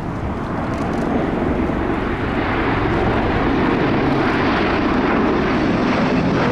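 CV-22B Osprey tiltrotor in flight, the noise of its two Rolls-Royce T406 turboshaft engines and big proprotors growing steadily louder as it approaches.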